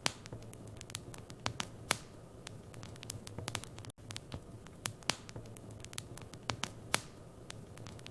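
Wood fire burning in a fireplace: irregular sharp crackles and pops, several a second, over a steady low hum, with a brief dropout about four seconds in.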